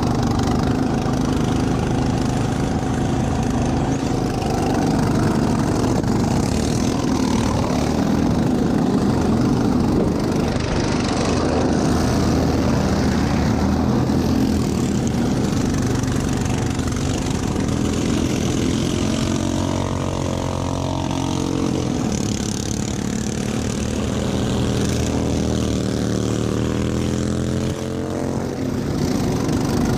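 Racing lawn mower engine running hard and continuously, its pitch rising and falling with the throttle in the second half.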